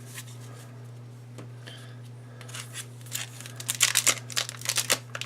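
Trading card pack wrapper being torn open and crinkled by hand, with a dense run of crackling from a little past halfway on, over a low steady electrical hum.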